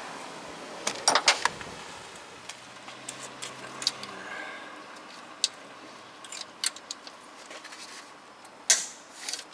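Irregular metallic clicks and clinks of a ratchet and socket being worked on an intake manifold nut.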